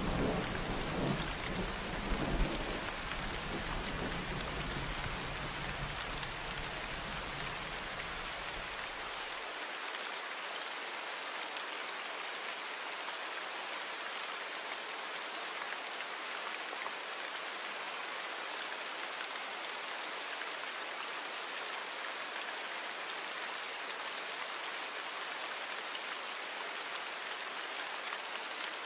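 Steady rain falling, an even hiss. A low rumble of thunder swells a few times in the first few seconds and is gone after about ten seconds.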